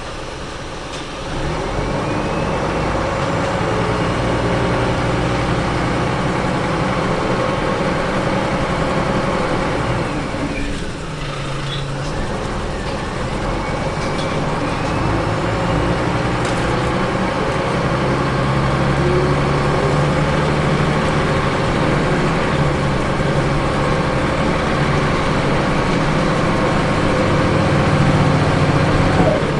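Ethanol-powered Scania L94UB city bus engine running under load. It grows louder about a second and a half in, its note rises, falls away about ten seconds in, then climbs again.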